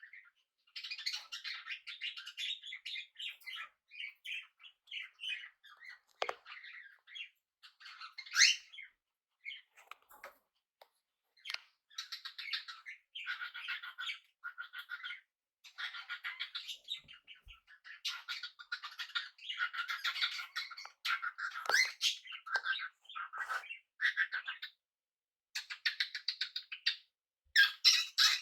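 Small pet parrots chirping and chattering in quick bouts, with short pauses between them and a louder rising call about 8 seconds in.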